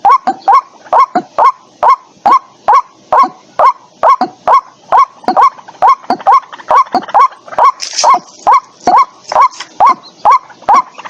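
White-breasted waterhen calling: a fast, steady series of short, sharp notes, about two or three a second. This is the lure call used with bird-trapping speakers. There is a brief hiss about eight seconds in.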